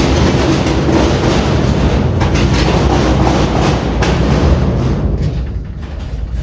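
Heavy metal piece scraping and rattling as it is dragged and turned across the floor, a continuous loud rumbling grind that eases off briefly near the end.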